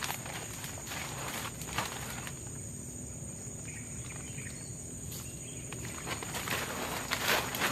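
Forest insects buzzing steadily at a high pitch, with scattered rustling, crunching footstep-like sounds on the forest floor that grow busier and louder near the end.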